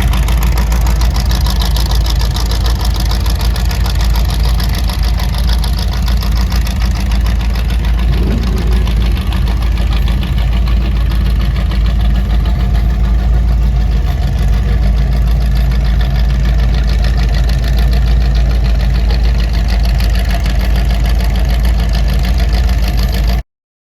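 Car engine idling loudly and steadily, with a fast even pulse of firing strokes and a deep low end; it cuts off suddenly near the end.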